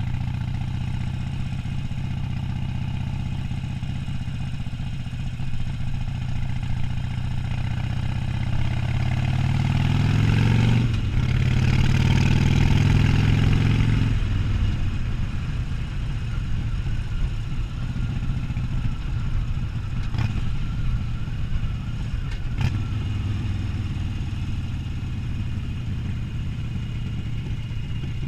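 Harley-Davidson Sportster 1200's air-cooled V-twin running while riding. About eight seconds in it climbs in pitch and gets louder, breaks off for a gear change near eleven seconds, climbs again, then drops back at about fourteen seconds to a steady cruise.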